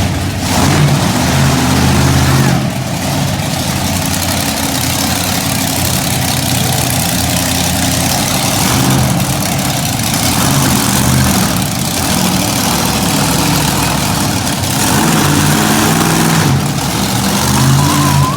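Monster truck engine running loud, its pitch rising and falling several times as it is revved.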